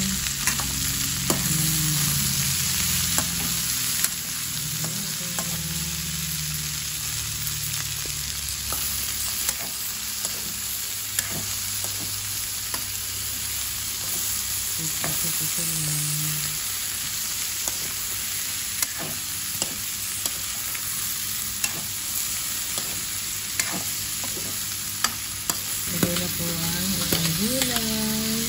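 Sliced vegetables, mostly julienned sweet potato, sautéing in oil in a metal wok with a steady sizzle, while a metal spoon stirring them scrapes and clicks irregularly against the pan.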